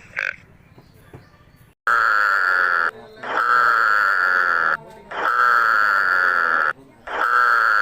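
An animal calling loudly four times in a row, each call long and held for about a second, after a short grunt right at the start.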